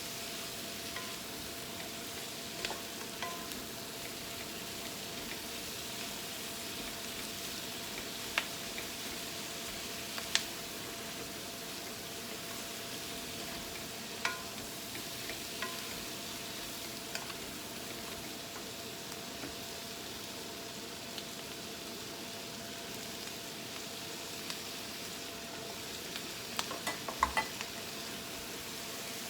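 Chicken, prawns and vegetables sizzling steadily as they fry in a pan, with occasional sharp clicks and a quick cluster of them near the end.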